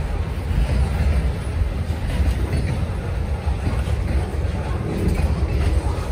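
Freight cars of a passing train rolling by on the rails: a steady, heavy low rumble of wheels on track with some clickety-clack.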